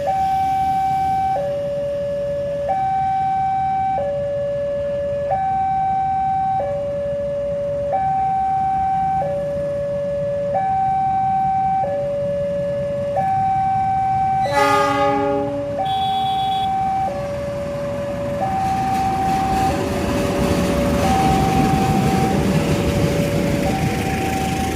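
Railway level-crossing warning alarm sounding a slow two-tone signal, high then low, each tone held a little over a second and repeating steadily. A short train horn blast comes about halfway through, and in the last few seconds the rumble of an approaching train builds up louder.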